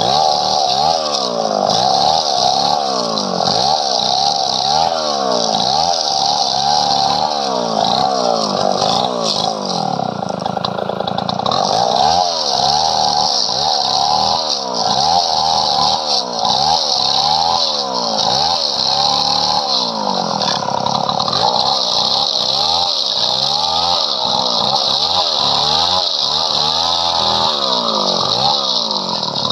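Two-stroke chainsaw cutting through padauk wood, its engine pitch dipping under load and recovering over and over as the chain bites.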